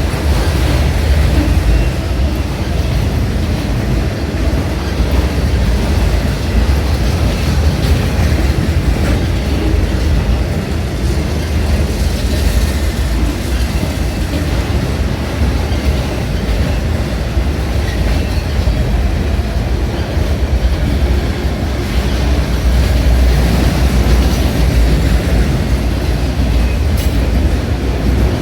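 Freight train cars rolling past, a steady loud rumble with the clatter of wheels on the rails.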